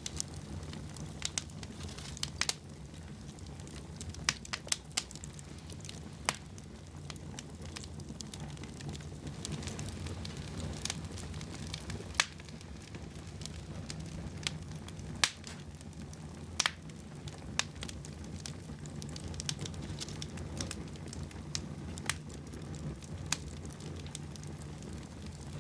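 Wood fire burning in a fireplace: a steady low rumble of flames with irregular sharp crackles and pops, roughly one a second.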